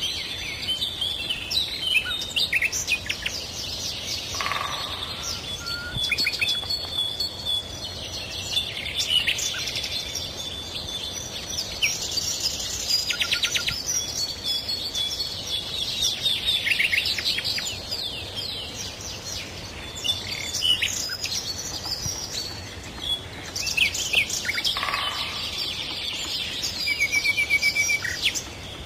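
Several birds singing at once: overlapping chirps, whistles and rapid trills.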